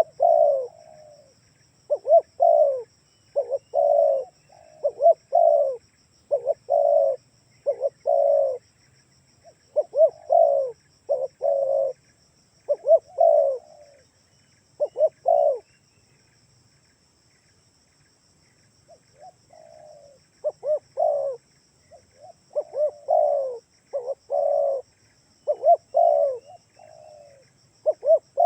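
Spotted dove (tekukur) cooing in repeated short phrases of low coos, the recorded call used as a lure to draw other doves. The calling pauses for about three seconds a little past halfway, then resumes faintly before returning at full strength.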